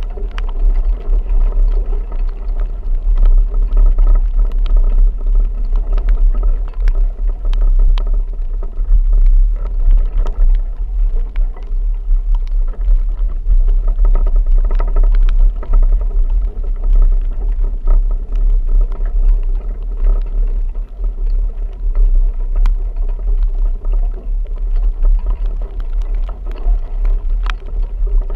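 A vehicle driving in a rainstorm: a steady low rumble with a hum over it, and scattered sharp ticks throughout.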